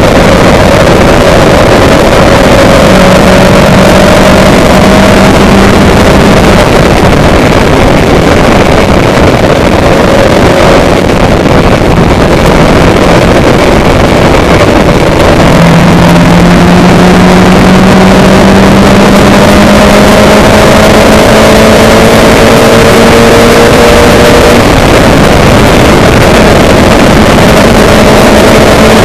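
A motor vehicle's engine running under loud, steady wind and road noise. The engine note drops about halfway through, then climbs slowly.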